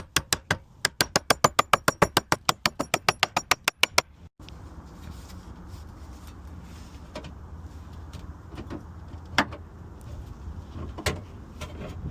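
Rapid hammer blows on a sheet-metal patch piece, about seven sharp strikes a second for roughly four seconds, bending the new panel along a marked line. After an abrupt cut, a steady low hum follows with a few single taps.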